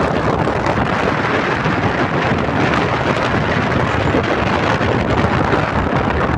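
Wind buffeting the microphone: a loud, steady rushing noise that never lets up.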